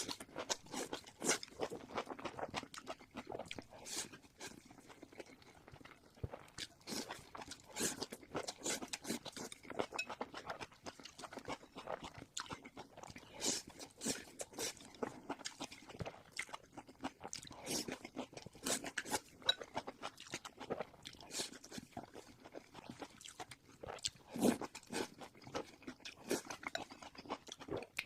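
Close-up eating sounds: chewing crunchy fried pork coated in chili sauce, with many irregular crunches and wet mouth noises.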